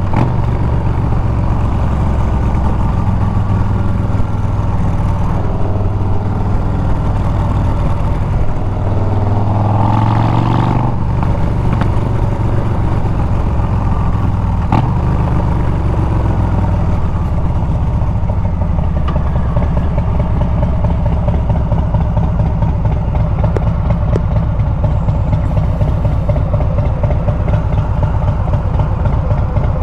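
Harley-Davidson Milwaukee-Eight 114 V-twin on Bassani straight pipes, heard from the moving bike. The engine note steps in pitch through gear changes and climbs about ten seconds in. From around sixteen seconds it falls away as the bike slows, then settles into a low, steady beat.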